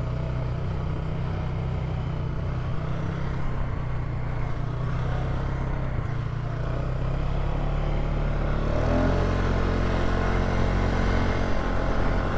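Polaris ATV engine running steadily under way on a dirt trail, with a rushing haze of wind and tyre noise. About nine seconds in, the engine note rises a little and gets louder.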